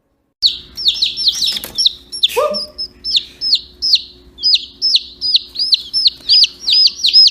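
Chicks peeping: a rapid string of high, downward-sliding peeps, about three a second, starting abruptly, with one lower call about two seconds in.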